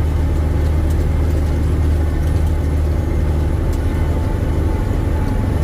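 Diesel engine of a 1984 Peterbilt 359 log truck running steadily under way, a loud, even low drone heard from inside the cab.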